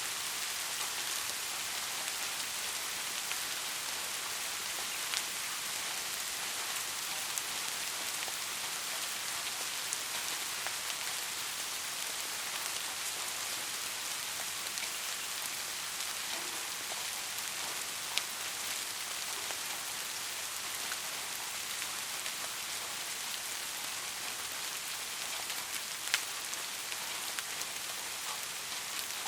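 Steady rain falling, an even hiss with scattered louder drop ticks, the sharpest about 18 and 26 seconds in.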